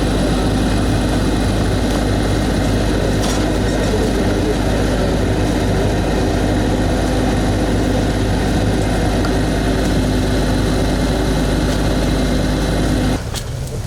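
A large engine running steadily with a low, even drone, cut off abruptly near the end.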